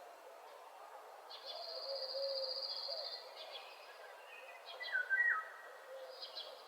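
Mixed woodland bird chorus. A fast, high trill runs for about two seconds, set against repeated low calls, and short whistled notes come in near the end.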